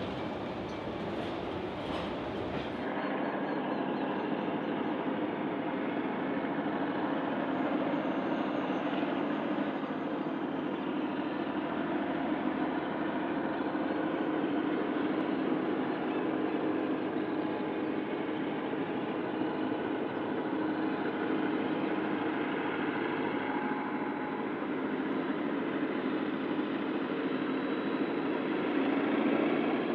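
Loaded grain hopper wagons roll past with wheel and rail clatter. After a cut a few seconds in, a diesel locomotive consist hauling the grain train is heard working from afar as a steady drone, which grows louder near the end as the train draws closer.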